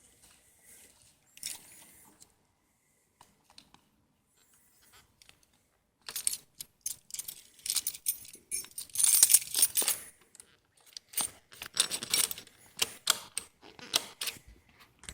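Sharp metallic clicks and jingles, a few faint ones at first, then a dense irregular run from about six seconds in: small metal parts being handled as the KTM 625 SMC is readied for a cold start.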